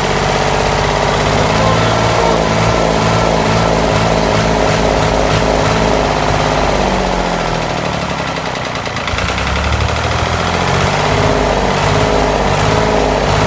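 Hatz 3M41 three-cylinder air-cooled diesel engine idling steadily after repair, not yet warmed up. Its note briefly drops and wavers about eight seconds in, then settles back.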